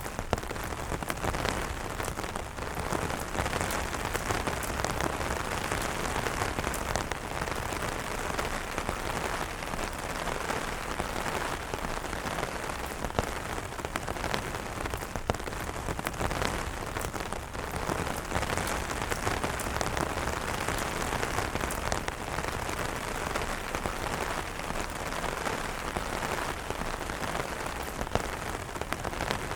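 Steady rain falling on umbrellas, a dense patter of drops with many individual taps standing out.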